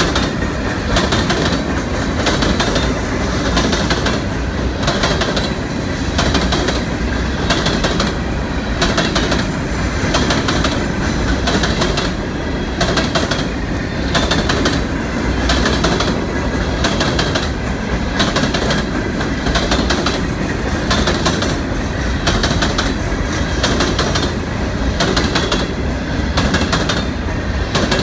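Empty coal hopper cars of a freight train rolling past at speed. The wheels clack over the rail joints in a steady, repeating rhythm.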